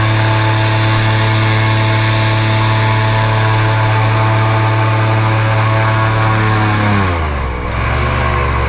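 Airboat engine and propeller running at a steady high speed, then throttled back about seven seconds in, the pitch falling and settling at a lower speed.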